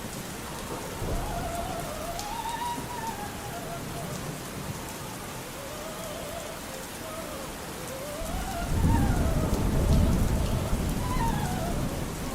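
Steady rain with a low roll of thunder rising about eight seconds in, over faint, muffled operatic singing with a wide vibrato.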